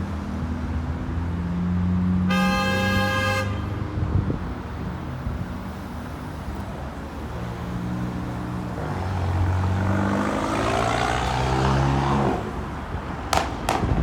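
Road traffic at a junction, with heavy vehicle engines running and passing. A vehicle horn sounds once for about a second, a couple of seconds in. Near the end there are two short sharp clicks.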